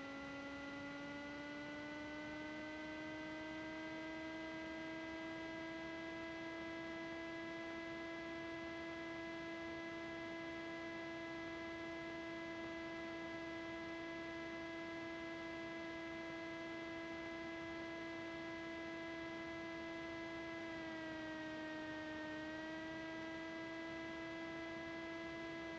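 Cessna 310's twin engines running at low power on the ground, heard as a steady hum with overtones. The pitch rises over the first few seconds, holds, and dips briefly about twenty seconds in.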